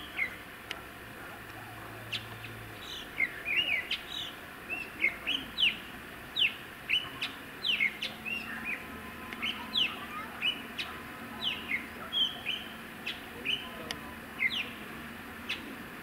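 Bird calling: a long run of short, sharp whistled notes, many of them sliding downward, about two a second.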